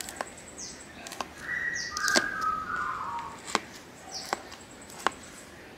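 Birds calling: short falling chirps and a louder run of notes about two seconds in, over a thin high steady whistle that comes and goes, with several sharp clicks scattered through.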